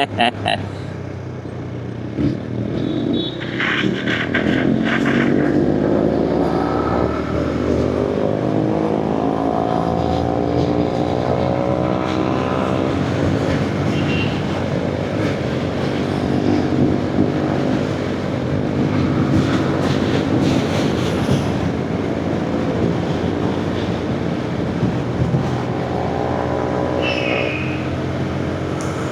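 Motorcycle engine running on the move, its pitch climbing steadily for several seconds as it accelerates, then holding fairly level at cruising speed.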